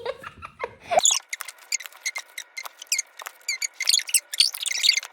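A voice trails off, then about a second in comes a rapid run of short, high-pitched squeaks and chirps with nothing deep beneath them.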